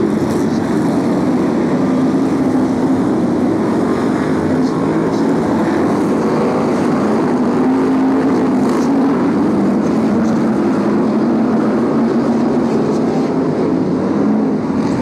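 A pack of BriSCA F1 stock cars racing round the track, their V8 engines running hard in a loud, steady, continuous noise.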